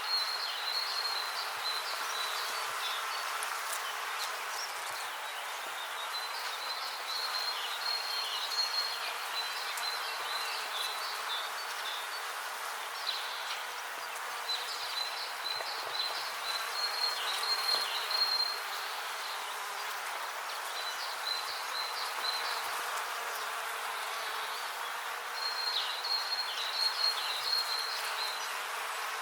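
Bees buzzing steadily, with short bouts of a high, rapidly repeated chirping trill every few seconds.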